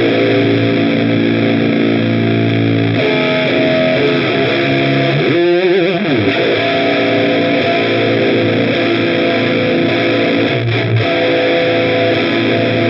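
Heavily distorted electric guitar through the Olinthus Cicada overdrive pedal, playing sustained chords that change several times, with a short slide down in pitch and back about halfway through.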